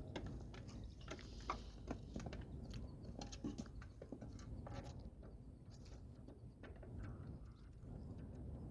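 Domestic birds pecking at feed: a scatter of small irregular taps and clicks.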